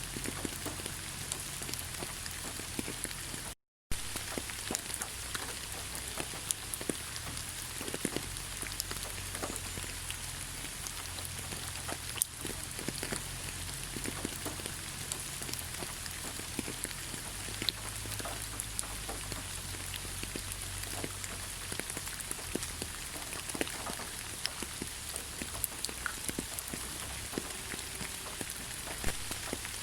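Steady rain falling in a forest: an even hiss of rainfall with many separate drops ticking close by. The sound cuts out for a split second just under four seconds in.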